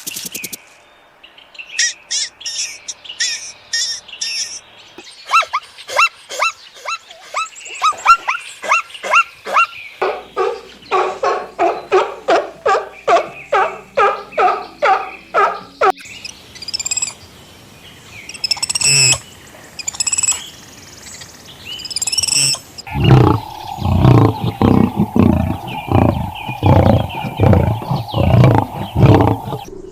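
A series of different animal calls, each repeated in quick succession, switching to a new kind of call every five or six seconds. High chirps come first and falling, swooping calls follow. The last stretch is lower and louder.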